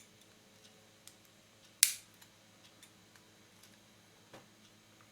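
Metal dentist's pick working at a plastic lens retaining ring that is hard to pry off: one sharp click about two seconds in as the tool slips or snaps off the ring, with a few faint ticks around it over a low steady hum.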